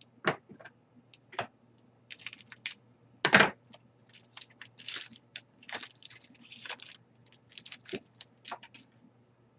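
Trading card pack wrapper being torn open and handled: an irregular run of sharp crackles and crinkles, the loudest a little over three seconds in.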